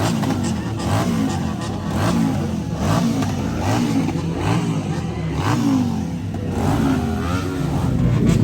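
Sport motorcycle engine revved over and over in quick throttle blips, its pitch rising and falling about twice a second.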